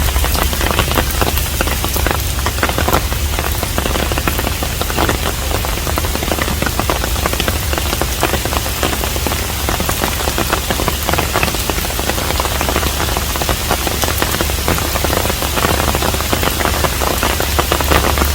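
Steady rain falling on a hanok, a traditional Korean house: a dense hiss of rain with many individual drops pattering close by, over a steady low rumble.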